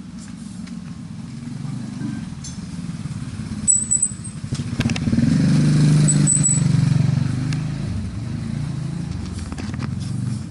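Motorbike engine passing close by, growing louder toward the middle and then fading, with a few sharp clicks about four seconds in.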